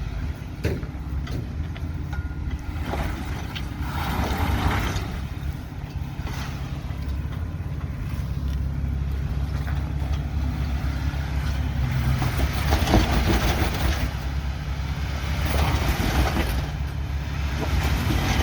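Lifted Jeep's engine running at low revs as it crawls over rocks, with a few louder stretches of tyre and rock noise along the way.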